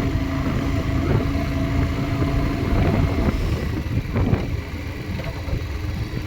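Motorcycle engine running steadily while riding, with road noise, easing off a little about four and a half seconds in.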